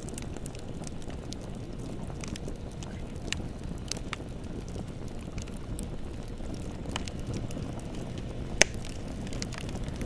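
Wood bonfire burning: a steady low rumble of flames with scattered sharp crackles and pops, one loud pop a little past eight seconds in.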